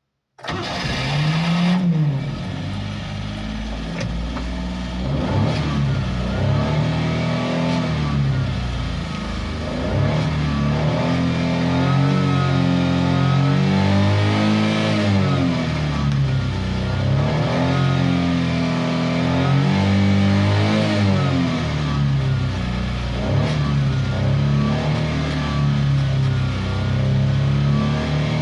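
A 1991 Daihatsu Hijet S83's small three-cylinder engine starts at the very beginning and keeps running. Its speed rises and falls over and over as it is revved and let back down.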